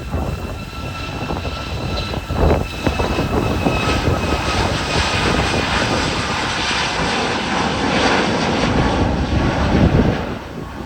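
Jet engines of a Boeing 737 MAX (CFM LEAP-1B turbofans) passing: a thin whine that drifts slightly lower in pitch under a rising rush of engine noise, loudest about eight to ten seconds in, then falling away near the end.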